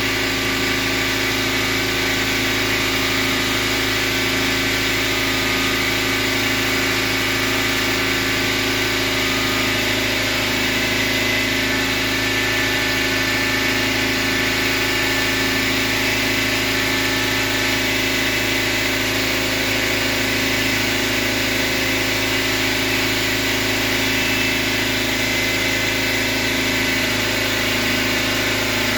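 A motor or engine running steadily at an even speed, with no change in pitch or loudness.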